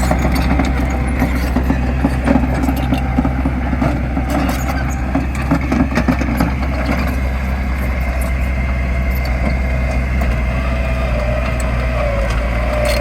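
Heavy earthmoving machine's diesel engine running steadily with a deep drone, with scattered clanks and knocks over the first half.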